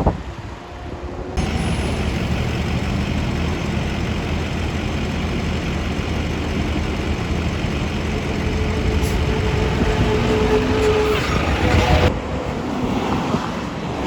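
Garbage truck engine running with road noise. It cuts in abruptly about a second in and cuts off abruptly near the end, with a brief high squeal shortly before it stops.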